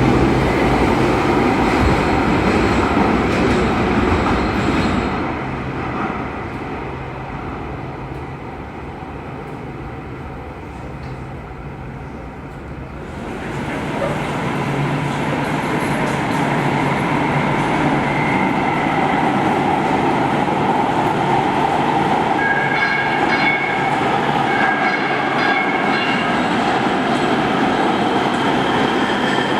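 Los Angeles Metro Rail train running through an underground station. The running noise fades about a fifth of the way in, rises abruptly a little under halfway through, and later carries thin high tones that come and go.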